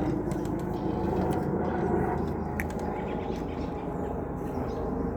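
Steady low outdoor rumble, like distant traffic, with a few short bird chirps over it; the clearest chirp comes about two and a half seconds in.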